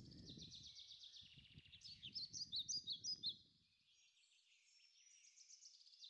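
Birdsong: a fast, continuous high trill with several loud, sharp chirps about two to three seconds in. A low rumble underneath cuts off about halfway through, leaving the trill on its own.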